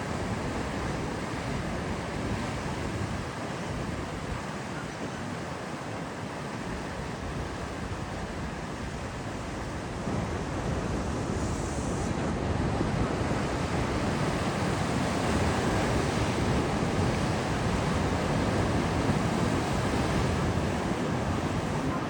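Rough sea with waves breaking and surging, and wind noise on the microphone; the surf gets louder about ten seconds in.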